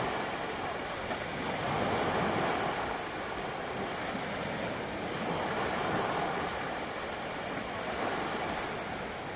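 Sea surf washing on the shore, the noise swelling and easing in slow waves every few seconds, over a steady high hiss.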